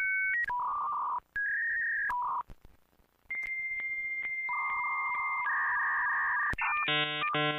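Dial-up modem handshake. Short pairs of beeping tones change pitch, then a long steady high answer tone with regular brief breaks, then warbling two-pitch chirps, and near the end a harsh buzzing tone.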